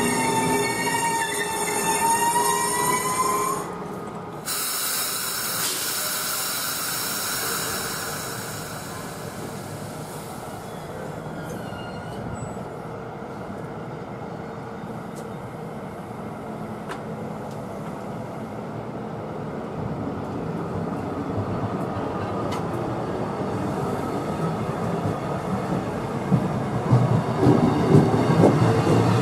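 MARC commuter train's coaches rolling along the platform track: steel wheels on rail, with a high squeal rising in pitch for the first few seconds, then a steady rolling rush. Near the end it grows louder, with quick clicking of wheels over the rail joints.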